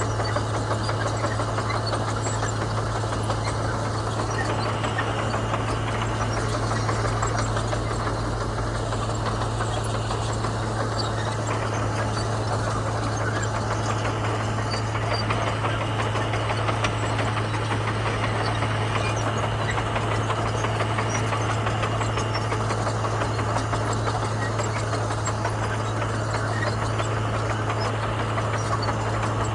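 Komatsu bulldozer's diesel engine running steadily, with a strong low hum and no change in pitch or level.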